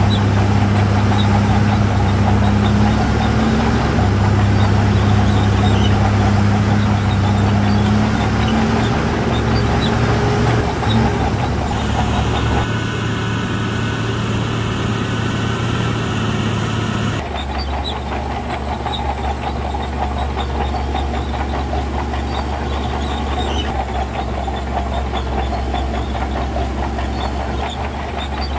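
Heavy diesel earthmoving machinery running steadily with a low engine drone. The sound changes abruptly twice, about twelve and seventeen seconds in.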